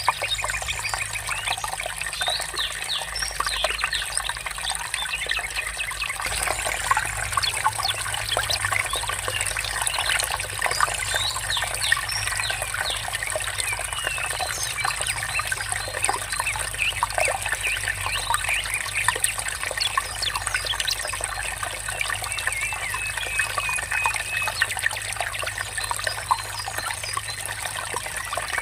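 Water trickling steadily, with many short bird chirps and calls over it.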